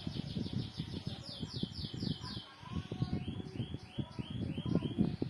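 A bird singing a rapid series of repeated chirps, about five or six a second, that switch to a lower note about halfway through, over irregular low knocking and handling clatter.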